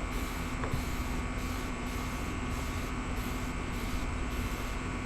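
Air conditioner running: a steady hum and hiss with a constant low tone.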